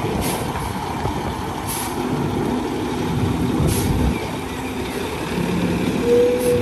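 Diesel dump truck engine running steadily while it creeps forward with its bed raised, gravel spilling from the tailgate. A brief steady whine comes in near the end.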